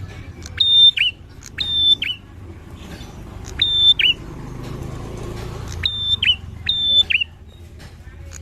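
Prinia (prenjak) calling with a repeated high whistled note, each a short held tone that drops sharply at its end. Five calls come about a second apart, broken by a gap of about two seconds in the middle, over a low background rumble.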